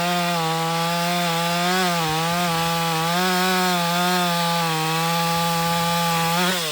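Two-stroke chainsaw at full throttle cutting wood with a freshly hand-filed chain, its pitch dipping slightly under load, then dropping sharply near the end as the throttle is released. The owner judges that the hand-filed chain cuts slower and doesn't self-feed well.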